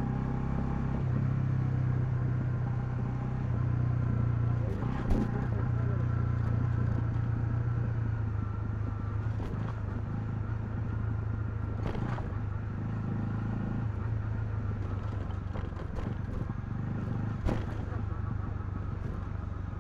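Honda CL250's single-cylinder engine running at a steady pace while the motorcycle is ridden, with a few short sharp clicks or knocks.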